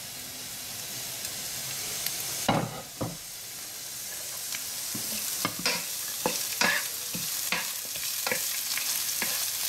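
Chopped onion and green chilli sizzling in hot ghee in a nonstick frying pan, the hiss slowly growing. A single knock comes about two and a half seconds in, and from about halfway on a wooden spatula scrapes the pan in short strokes, one or two a second, as the onion, chilli and coriander are tossed.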